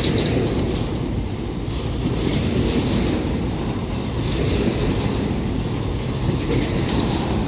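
Freight train rolling past: a steady low rumble of wagons on the track, with no breaks or sudden knocks.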